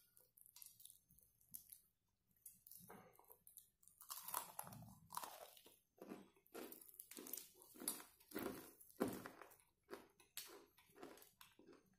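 Crunching and chewing of crispy breaded fried chicken wing, the crust crackling as it is bitten and pulled apart by hand. Faint for the first few seconds, then a run of irregular crunches.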